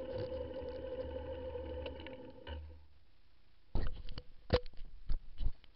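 Honda CBF125's single-cylinder engine idling with a steady hum, cut off about two and a half seconds in. About a second later comes a run of irregular knocks and rubbing clicks from the camera being handled and taken down.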